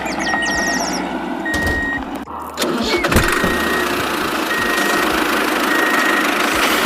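Tractor engine running steadily, with a high half-second beep repeating about once a second. The sound breaks briefly about two and a half seconds in.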